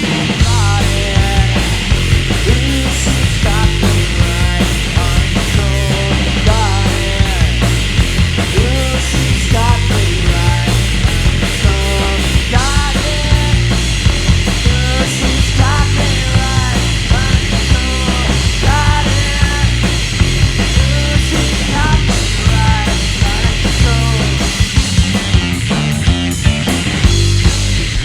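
Three-piece rock band playing live with electric guitar, bass and drums, an instrumental stretch with a lead line bending in pitch over the drums and bass. The song stops abruptly at the very end.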